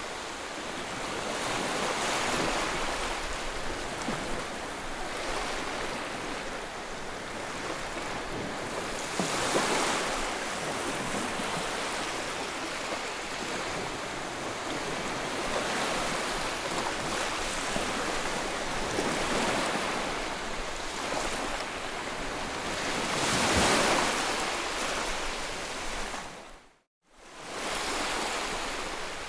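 Ocean surf: waves breaking and washing in, swelling and easing every several seconds. The sound drops out suddenly for under a second near the end, then resumes.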